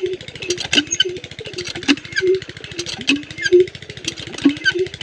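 Small diesel water-pump engine running steadily with a rapid, even chugging. Irregular voice-like tones sound over it.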